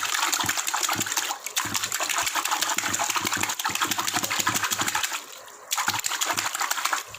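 Hands splashing rapidly in a tub of water, a fast, continuous run of splashes and slaps that breaks off briefly about five seconds in, resumes, then stops just before the end.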